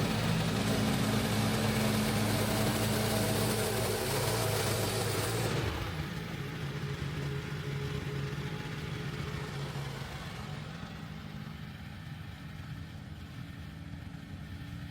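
Band sawmill running on its small gas engine, with the saw cutting through a log. About six seconds in, the hissing cutting noise drops away and the engine settles lower and quieter, easing off toward the end.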